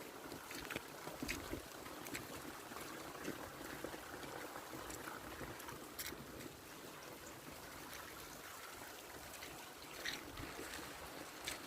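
Rain, heard as steady trickling water with scattered short drips and ticks.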